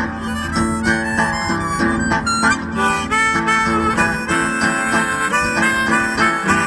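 Harmonica solo, a fast run of changing notes, over a strummed acoustic guitar in a blues style.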